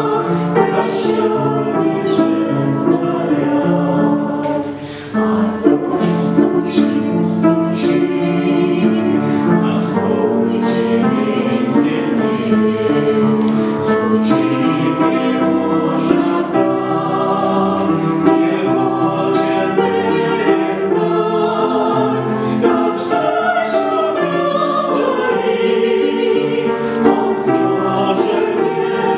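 A choir singing a song in several-part harmony, with a short break between phrases about five seconds in.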